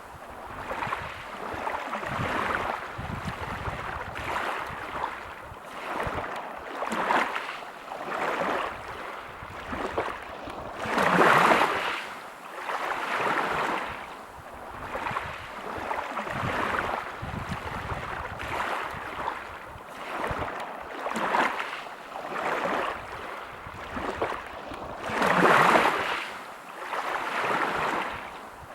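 Waves breaking on a pebble beach, the wash swelling and ebbing every second or two, with two bigger waves breaking about a third of the way in and near the end.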